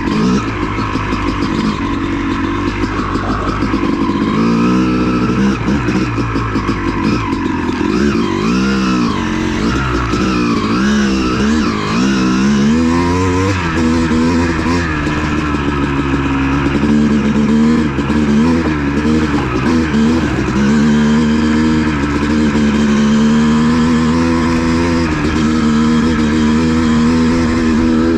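Honda CR250 two-stroke dirt bike engine under way, revving up and dropping back again and again as the rider accelerates and shifts, then settling into a steadier pitch for the last third.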